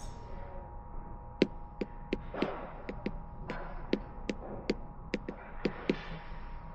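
Computer keyboard keys tapped one at a time in an irregular rhythm, about fifteen light clicks, as a file name is typed. A faint steady electronic hum runs underneath.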